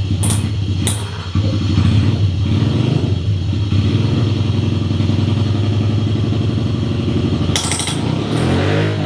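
Dirt bike engine running steadily. The note dips briefly about a second in and swings down and back up near the end.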